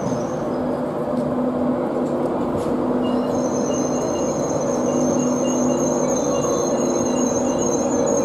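A long express passenger train's coaches rolling slowly past, with a steady rumble and hum of wheels on rails. A thin high-pitched squeal fades out about half a second in and comes back about three seconds in.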